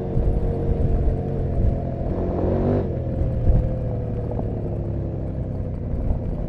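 KTM 790 Adventure R's parallel-twin engine and exhaust running under way, recorded from inside the tail bag. Its note holds steady, shifts briefly about two and a half seconds in, then slowly falls.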